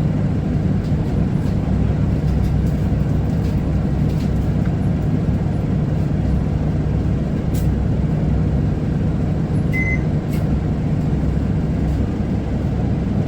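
Isuzu Erga city bus's diesel engine idling with a steady low rumble, heard from inside the cabin while the bus stands at a stop. A short electronic beep sounds about ten seconds in.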